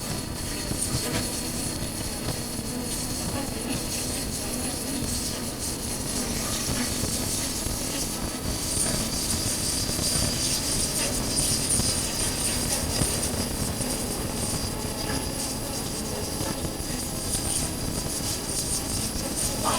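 Honda CB400X's parallel-twin engine running steadily under way, mixed with wind rushing over the chest-mounted camera's microphone. A faint steady high whine sits above it.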